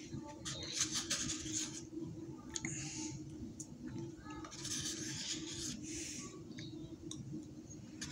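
Close mouth sounds of a man chewing, with clicks and smacks about a second in and again near the middle, and several breaths through the nose. A steady low hum runs underneath.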